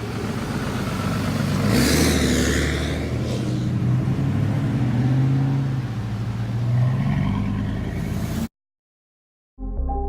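Truck engine revving, rising and falling in pitch. The sound cuts off abruptly about eight and a half seconds in, and music starts a second later.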